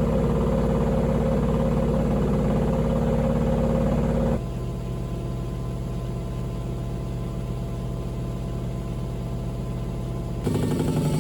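Panasonic NA-VX9300L drum-type washing machine running with a steady mechanical hum. About four seconds in, the sound switches abruptly to a quieter, steadier hum.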